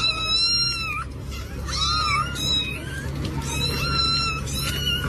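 A cat meowing over and over in high, drawn-out calls, about five in all, each lasting up to about a second, over a steady low hum.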